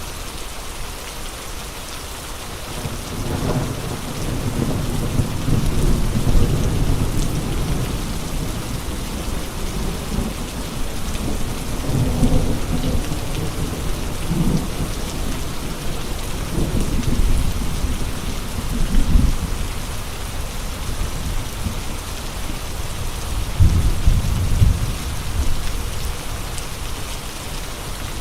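Steady heavy rain hissing, with low rumbling gusts of wind that swell in about three seconds in and peak several times.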